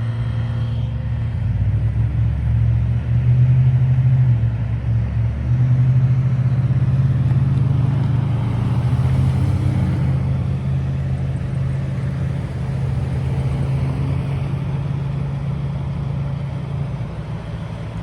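An engine running steadily with a low hum, its pitch shifting slightly about a second and a half and about five and a half seconds in.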